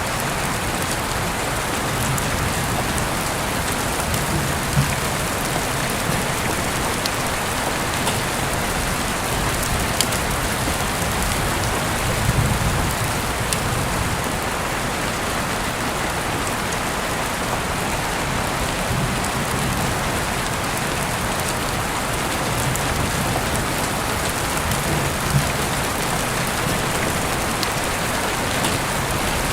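Heavy rain falling steadily in a dense even hiss, with a few sharper drop impacts standing out now and then.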